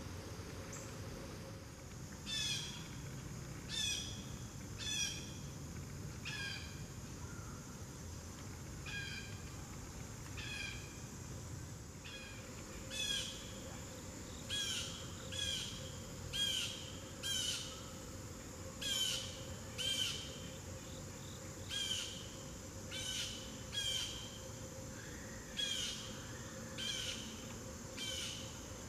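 A bird calling over and over: short, harsh calls that drop slightly in pitch, about one or two a second, with a steady faint high tone behind them.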